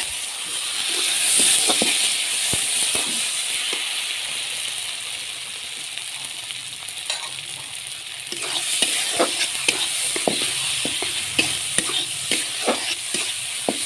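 Chopped tomatoes frying in spice paste in a metal wok, sizzling steadily, while a metal spatula stirs and scrapes against the pan. The scraping grows busier from about eight seconds in.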